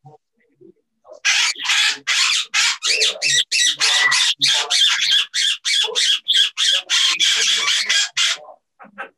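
A parrot squawking loudly over and over, about three harsh calls a second, starting about a second in and stopping shortly before the end.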